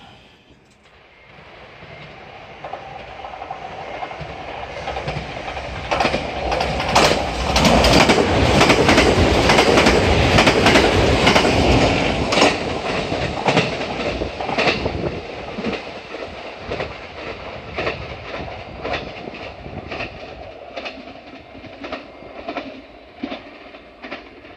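A train passing on the rails: it grows louder as it approaches and is loudest for several seconds in the middle, with the wheels clicking rhythmically over rail joints, then fades as it moves away.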